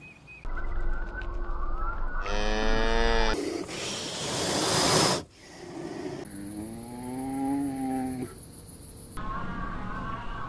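A string of spliced animal sound clips: a cow mooing about two seconds in and again at about six seconds, with a loud breathy hiss between the moos and a higher-pitched call near the end.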